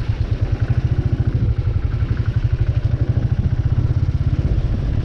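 Royal Enfield 350 single-cylinder motorcycle engine running at low revs with an even, rapid thump.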